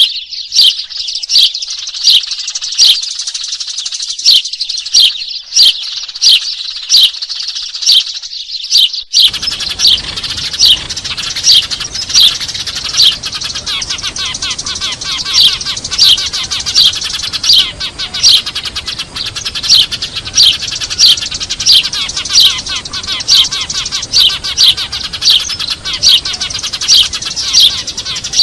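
A flock of Eurasian tree sparrows chirping noisily in a dense chatter, with loud single chirps standing out about one to two times a second: a sparrow lure call. A low steady hiss joins about nine seconds in.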